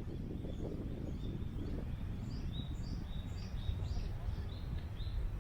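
Birds chirping in a quick series of short, high chirps that thickens from about two seconds in, over a steady low rumble of wind.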